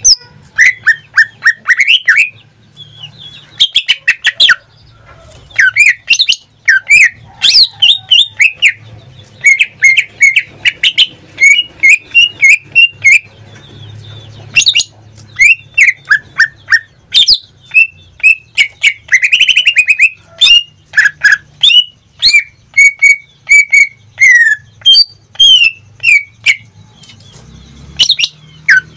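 Pet cucak ijo (green leafbird, Chloropsis) in full song: a loud, rapid, varied run of sharp chirps, quick downward-sweeping whistles, trills and squawky notes, broken by short pauses.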